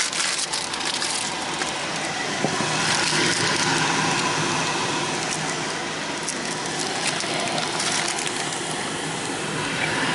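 Trash being gathered up by hand from a car: a steady rustling and crunching with many scattered clicks.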